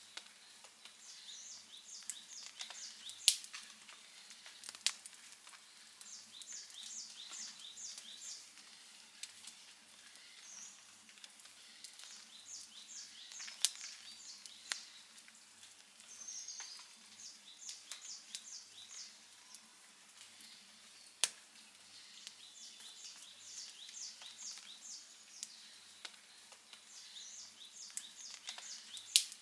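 Wood campfire crackling softly, with a few sharp loud pops scattered through. Runs of short, high chirps repeat in the background.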